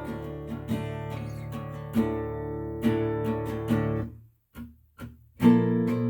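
Acoustic guitar music with strummed chords, which break off for about a second past the middle and then come back louder.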